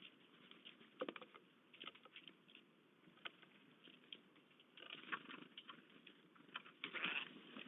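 Animals feeding and moving about on a bird feeder: irregular taps, clicks and scratchy rustles, busiest about a second in and again near the end.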